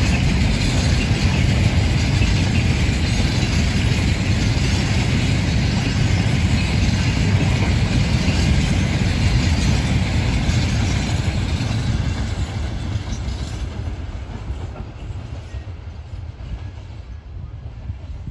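Freight train of grain hopper wagons rolling past on the rails. The noise is loud and steady, then fades over the last third as the end of the train goes by.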